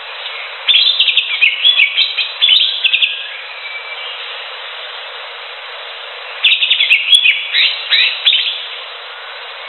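Greater green leafbird (cucak hijau) singing in two bursts of rapid, varied chirping notes, the first about a second in and the second past six seconds, over a steady background hiss.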